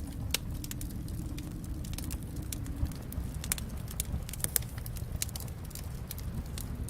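Fireplace fire crackling, with sharp irregular snaps over a steady low rumble of the burning fire.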